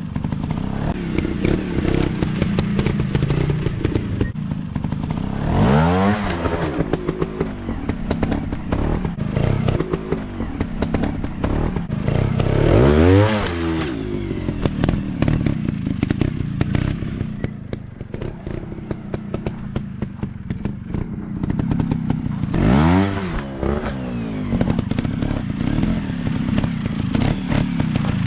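Dirt-bike engines running off-road, revving up and dropping back three times, with clattering knocks throughout.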